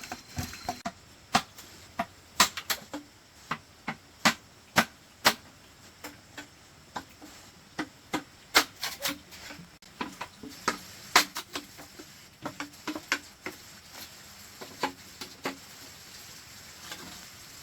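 Irregular sharp knocks and clicks of bamboo pieces being handled and struck while a cabinet is assembled, sometimes several in quick succession, growing sparser near the end.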